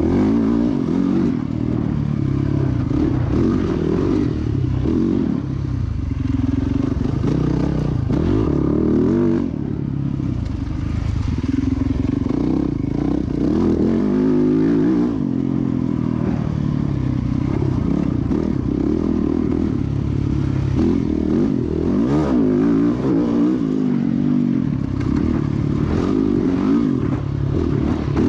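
Motocross dirt bike engine running hard, its pitch climbing and dropping over and over as the rider opens and closes the throttle through gears.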